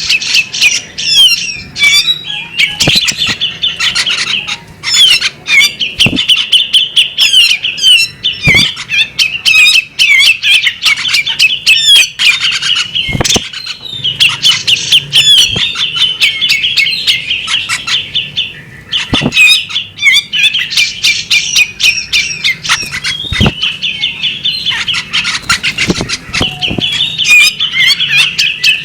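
Female magpie-robin singing a long, rapid chattering song of quick sharp notes, with brief breaks. Sharp knocks or flaps come every few seconds.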